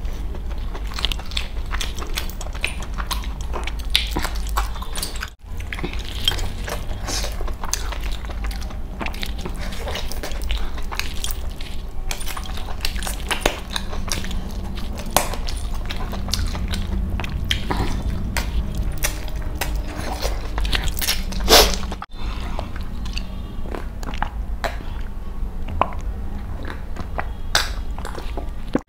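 Close-up eating sounds of chicken leg pieces eaten by hand: chewing, biting and smacking as meat is pulled from the bone, in many short sharp clicks over a steady low hum. One louder burst comes about three quarters of the way through.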